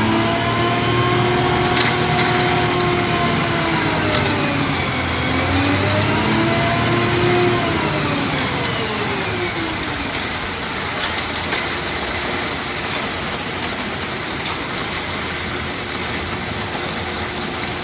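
Concrete mixer truck's engine revving up and holding, dropping about four seconds in, revving up again, then easing down around ten seconds in, leaving a steady rushing noise.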